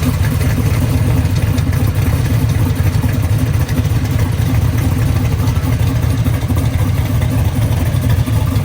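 A muscle car's V8 engine idling, loud, deep and steady, with no revving.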